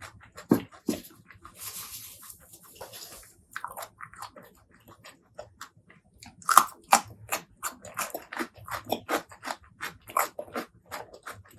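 Close-miked eating: biting and chewing with wet mouth smacks and crunches. A brief hissing noise comes about two seconds in, and a quick run of chewing clicks fills the second half.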